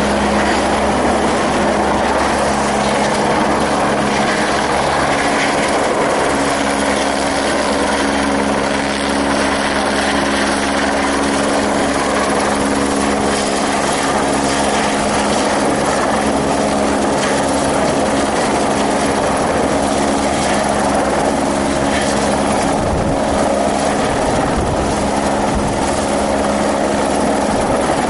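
Helicopter running steadily: a loud, constant drone with a steady hum that holds throughout.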